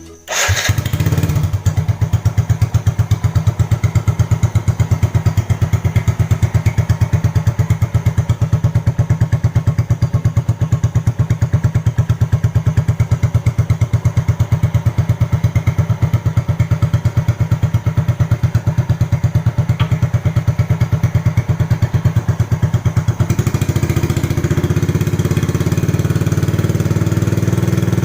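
Yamaha Jupiter motorcycle's four-stroke engine idling through a swapped-in Honda Karisma muffler, a steady even putter from the exhaust. About 23 seconds in, the note changes and grows fuller in the mid range.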